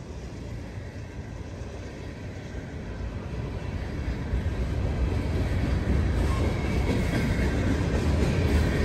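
Freight train of covered hopper cars rolling past close by, a steady low rumble of wheels on rail that grows louder from about three seconds in.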